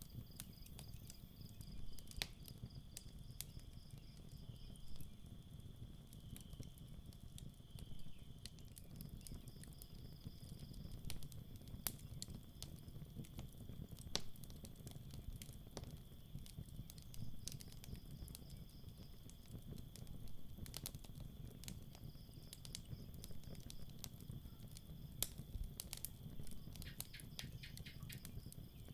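Campfire crackling with scattered sharp pops over a low steady rumble, while crickets chirp in high pulsed trains that come and go.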